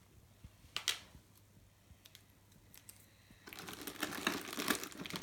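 A few light clicks, then from about three and a half seconds in a steady crinkling and clicking of small plastic packaging being torn open and handled, as L.O.L. Surprise doll accessories are unwrapped.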